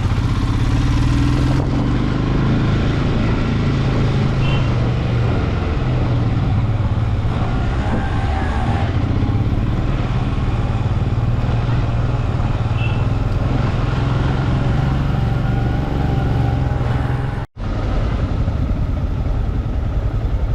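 Royal Enfield Himalayan's 411 cc single-cylinder engine running steadily on the ride, with a momentary drop to silence about three-quarters of the way through.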